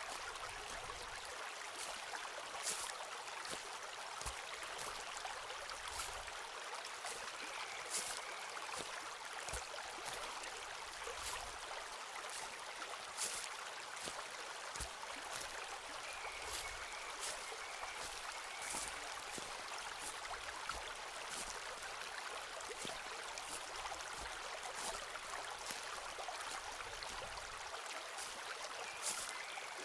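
Footsteps on a forest path: short crunching steps with dull thuds underfoot, every second or so, over the steady rush of a nearby stream.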